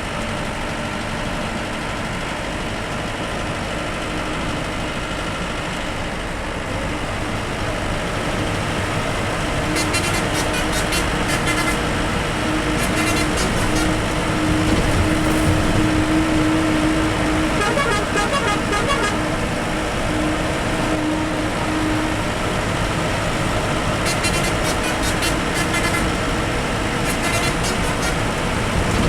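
Bus engine and road noise while driving, growing louder partway through as the bus speeds up, with horn toots in quick clusters several times.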